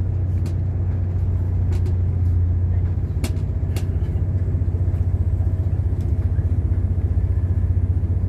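Steady low rumble of a moving train, heard from inside the carriage, with a few short clicks in the first four seconds.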